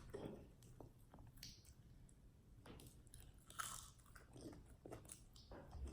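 Faint chewing and biting of fast food by a person, with soft short crunches scattered through near silence.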